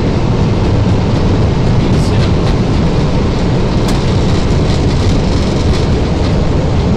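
Airbus A321 cockpit during the landing rollout: a steady loud roar and rumble of the engines and of the wheels on the runway as the airliner decelerates. A faint tick can be heard just before the middle.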